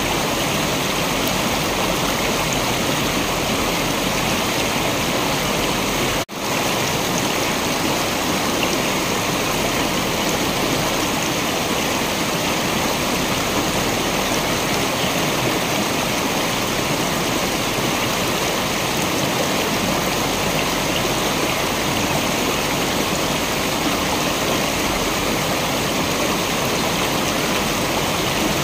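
Waterfall: steady rushing, splashing water. It cuts out for a split second about six seconds in.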